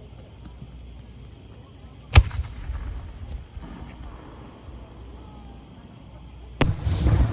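Aerial firework shells bursting: a sharp bang about two seconds in, and another near the end followed by a rumbling, crackling tail. Insects chirp steadily underneath.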